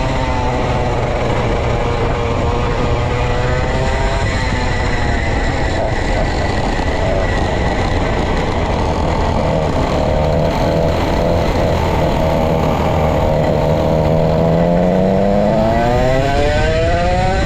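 Vintage go-kart's 135cc Sudam engine running hard on track. Its pitch drops off at the start as the kart slows, then holds fairly steady, and climbs sharply near the end as it accelerates again.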